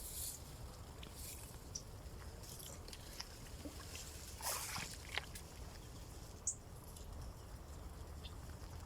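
Quiet outdoor waterside ambience: a steady low rumble, with scattered faint rustles and clicks and a few brief high chirps.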